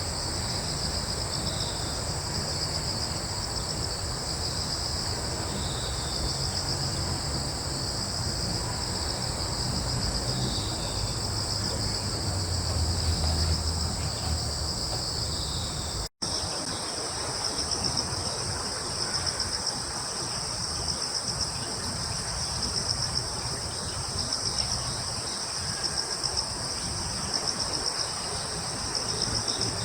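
Crickets trilling in a steady, high-pitched chorus of several overlapping voices. A low rumble runs under it during the first half, and the sound cuts out for an instant a little past halfway.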